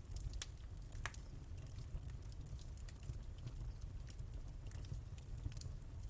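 Wood fire burning in a fireplace, with a low rumble and frequent irregular crackles and pops.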